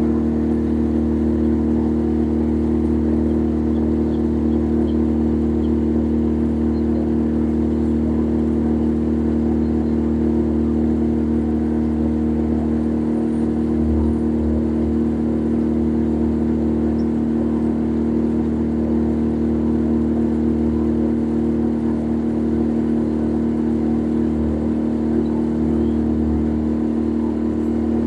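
Boat engine running steadily, an unbroken drone.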